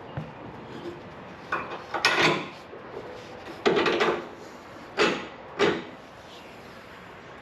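Several short clunks and scrapes of tools and parts being handled, about five in a few seconds, with the longest scrapes near the middle.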